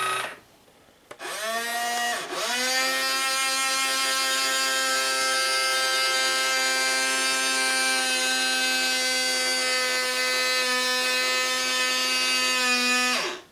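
Small electric gear motor of a Hobby Engine 1:12-scale RC excavator whining: a short burst about a second in, then a steady whine of about ten seconds at one pitch that cuts off suddenly near the end.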